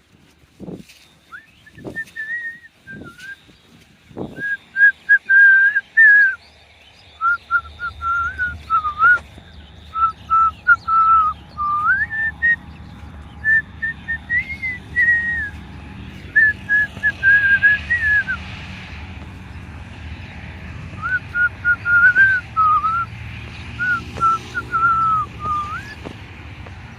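A tune whistled in phrases of held and sliding notes, with a few sharp clicks in the first few seconds and a low steady hum underneath.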